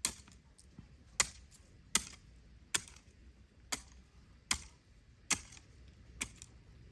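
A steady series of sharp chopping or knocking blows, a little under one a second, with fainter ticks between them.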